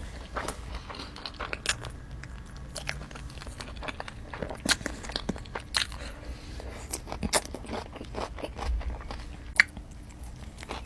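Close-miked eating: crunchy bites and chewing of In-N-Out food, with irregular crisp crackles and a sharp snap about two-thirds of the way through.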